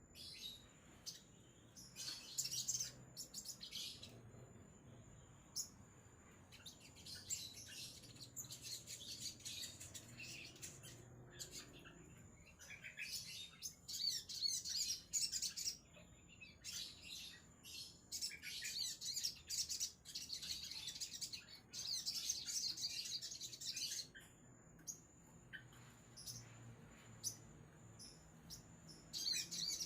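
Crimson sunbird (sogon) singing in repeated bursts of fast, high chattering trills, separated by short pauses.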